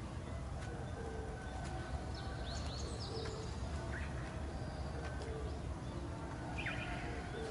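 Birds calling outdoors: a few short, sharply falling chirps over a steady low rumble of background noise.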